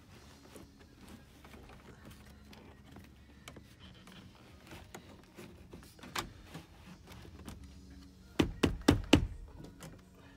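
A single knock, then about two seconds later a quick run of about five loud thunks, over a faint steady hum.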